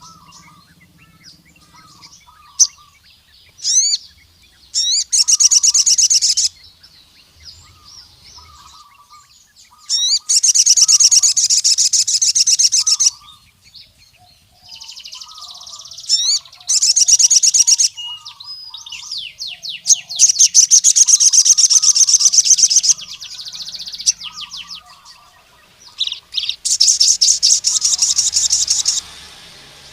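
Male crimson sunbird (sogon) singing loudly, calling out to a rival male: repeated bursts of very rapid, high-pitched trills, each lasting one to three seconds, with a few quick rising chirps in between and fainter, lower chirps from other birds underneath.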